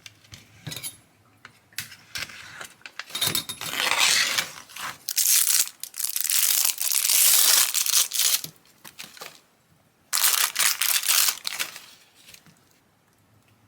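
Plastic packaging crinkling and being torn open in several long bursts, with quieter rustling and handling noises between them.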